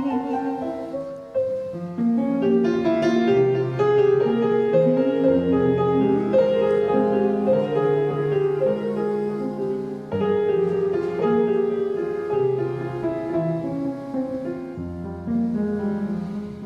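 Instrumental break on keyboard: slow, held chords with a melody line moving above them.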